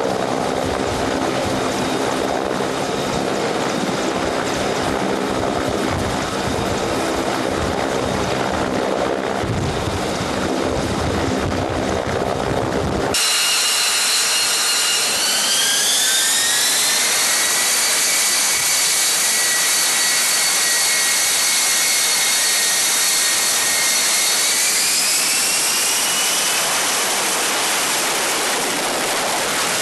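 Jet aircraft engine whining with a high pitch. It steps up in pitch twice as the engine spools up. Before that, after a sudden cut, there is a steady engine rumble with rushing wind or sea noise.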